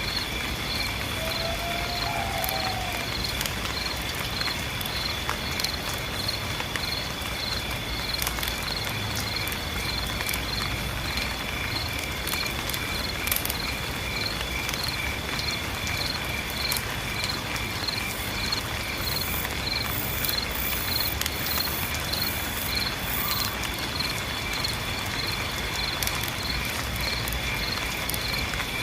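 A night chorus of insects: a continuous high, steady trill with evenly repeated chirps a little above and below it. Underneath is an even hiss of falling rain.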